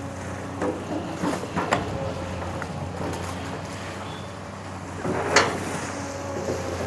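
Excavator's diesel engine running steadily, with a held whine over it and several sharp knocks and clanks as it works the embankment, the loudest about five seconds in.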